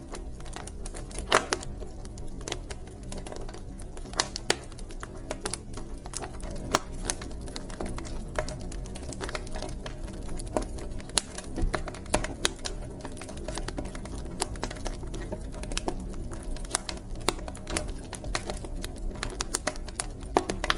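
Wood fire in a fireplace crackling, with frequent irregular sharp pops and snaps over a low, steady rumble of the burning logs.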